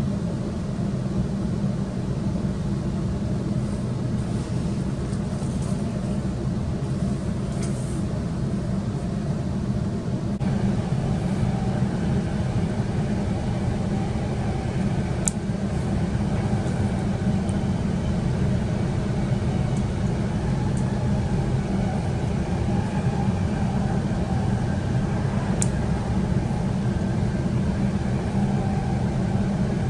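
Electric suburban train heard from inside the carriage, a steady low rumble and hum as it pulls out of a station and runs along the track. It gets a little louder about ten seconds in, with a couple of sharp clicks later on.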